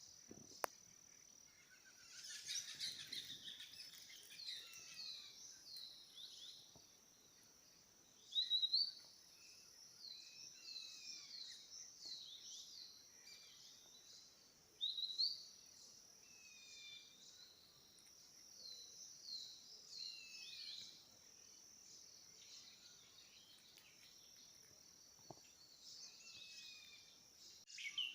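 Forest songbirds chirping and calling in short, quick, downward-sliding notes, several birds overlapping, with louder bursts a few times. Under them runs a steady high insect drone.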